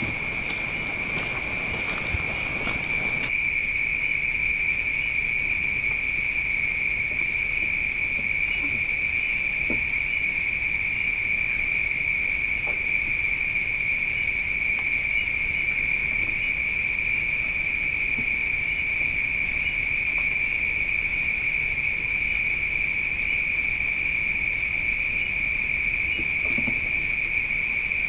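Crickets and other night insects chirring steadily in a continuous chorus, in two high shrill tones, with a few faint knocks.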